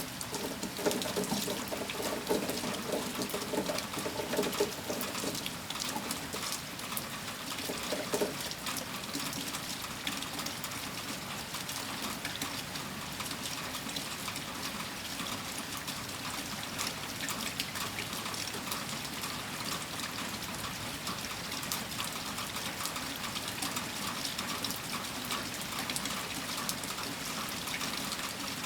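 Steady heavy rain: a dense patter of drops with water running and trickling through it. The running water is fuller for the first eight seconds or so, then it all settles to an even downpour.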